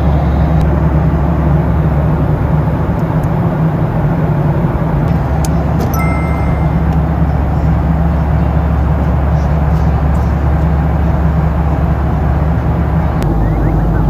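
Steady drone of an airliner cabin in flight: jet engine and airflow noise, deep and constant, with a slight shift in the low hum about 13 seconds in.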